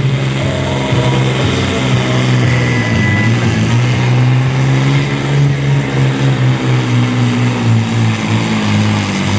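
Supersport-class pulling truck's turbo-diesel engine running flat out under load on the pulling track, a loud, steady heavy drone with a thin high whine above it and only small dips in pitch.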